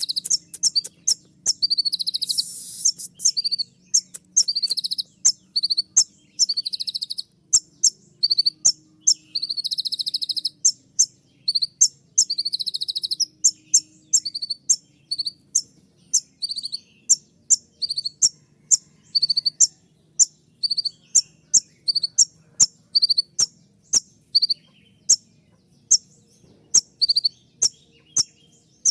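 Kolibri ninja sunbird singing its rapid, sharp 'shooting' song: piercing high chirps about twice a second, broken by a few short buzzy trills.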